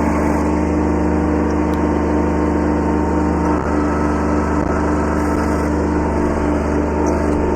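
Kubota B7100 subcompact tractor's three-cylinder diesel engine running at a steady speed.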